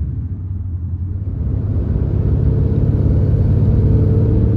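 Truck running on the road, heard from inside as a steady low rumble that grows louder from about a second and a half in as it picks up speed.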